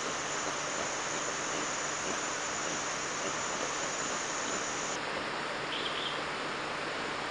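Insect chorus with a constant hiss. A steady high-pitched insect drone cuts off suddenly about five seconds in, and a single short chirp follows about a second later.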